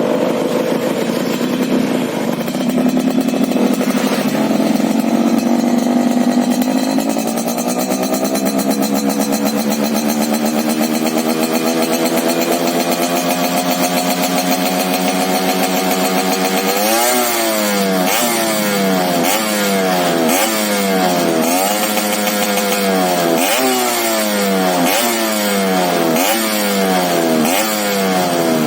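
Two-stroke Yamaha Alfa motorcycle engine running through a freshly changed exhaust filter: the revs climb slowly at first, then from about halfway the throttle is blipped over and over, roughly once a second, each rev shooting up and dropping back.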